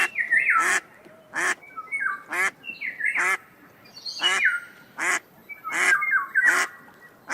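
Ducks quacking repeatedly, about one loud quack a second, with higher, shorter sliding calls in between.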